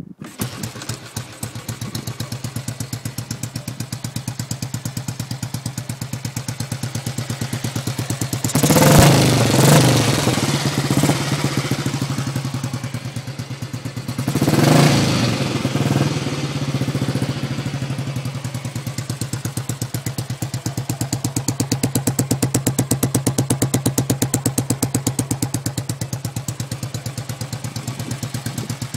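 Royal Enfield single-cylinder four-stroke motorcycle engine starting up at the very beginning and idling with an even, rapid beat. The throttle is blipped twice, about nine and fifteen seconds in, each rev falling back to idle.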